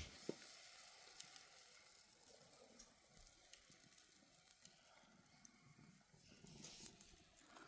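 Near silence: faint background hiss with a few small, faint clicks.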